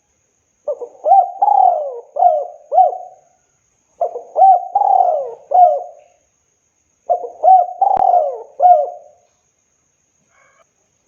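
Spotted dove cooing: three phrases of four or five short coos each, a couple of seconds apart.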